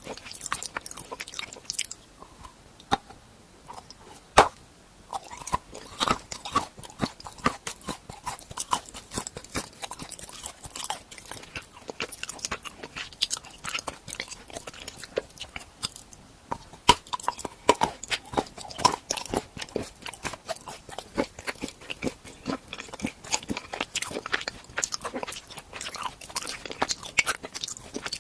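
Close-miked biting and chewing of crunchy food: dense crackling crunches with a few sharper snaps as pieces are bitten off.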